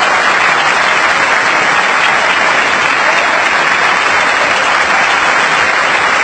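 A crowd applauding, a dense, steady clapping that does not let up.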